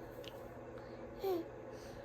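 A baby babbling: one short vocal sound, falling in pitch, a little past the middle, over a faint steady room hum.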